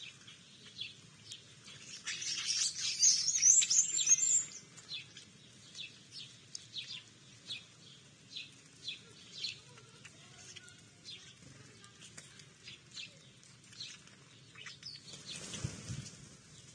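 Small birds chirping, with many short, high calls spread throughout and a louder, busier burst about two to four seconds in. A brief low rumble comes near the end.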